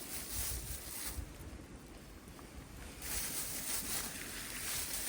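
Wind buffeting the microphone: an uneven low rumble with a faint high hiss that drops away for about two seconds mid-way.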